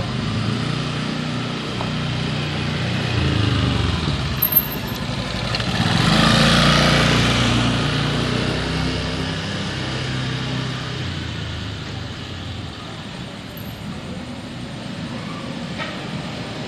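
Street traffic of motorcycles and cars passing with engines running steadily. One vehicle passes close and loudest about six to eight seconds in, then fades, and there is a brief sharp click a little before it.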